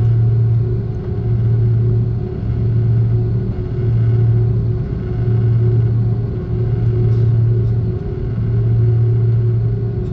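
Airliner cabin noise inside an Airbus A330-300 with Pratt & Whitney engines: a steady, loud low engine drone with a fainter higher hum. The drone swells and fades about every one and a half seconds, the beating of two engines running at slightly different speeds.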